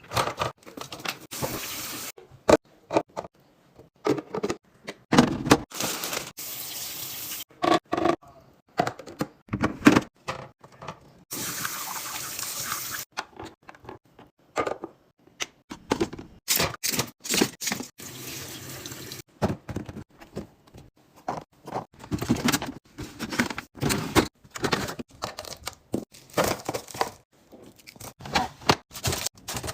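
Kitchen tap running in several short bursts of a second or two, between frequent knocks and clatter of containers and food being handled.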